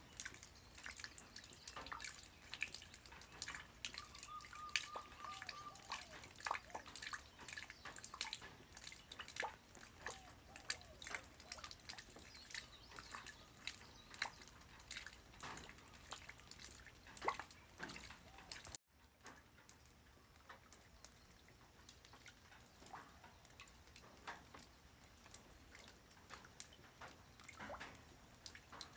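Light rain falling on the ground, heard as many separate drops ticking and dripping over a soft hiss. A short faint steady tone sounds about four seconds in. The sound cuts out abruptly for an instant just before two-thirds of the way through; after that the drops are fewer and quieter.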